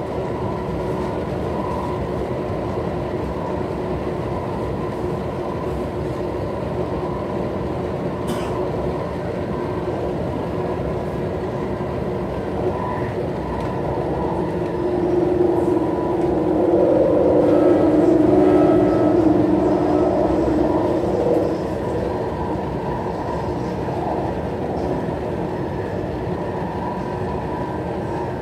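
MTR West Rail Line eight-car electric train running at speed, heard from inside the carriage: a steady rumble of wheels on rail with a steady hum over it. It grows louder for several seconds in the middle, and there is a single sharp click about eight seconds in.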